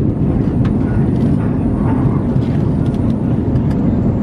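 Steady low noise of an Airbus A320 airliner heard from inside the passenger cabin: engine and airflow noise with an even level throughout.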